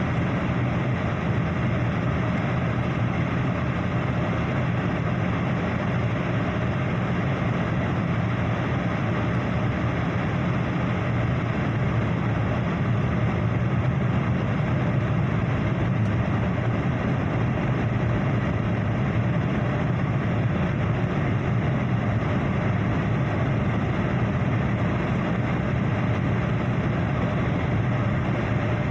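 Airliner engine noise and airflow heard inside the passenger cabin: a steady low drone with a broad rushing hiss, unchanging throughout.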